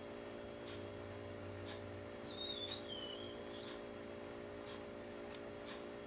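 Small songbird calls: short, sharp chirps about once a second, and one wavering, warbling call a little over two seconds in that lasts about a second and a half. A faint steady low hum runs underneath.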